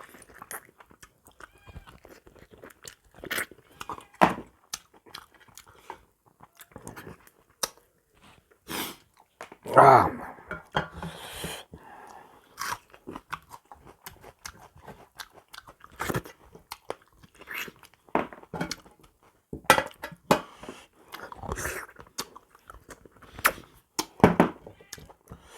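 A person eating close to the microphone: irregular wet chewing, crunching and mouth clicks while working through buffalo trotter meat with rice and pickle. One louder, longer mouth sound comes about ten seconds in.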